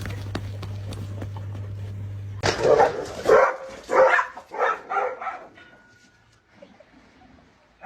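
A steady low hum that cuts off about two and a half seconds in, followed by a dog barking about six times in quick succession.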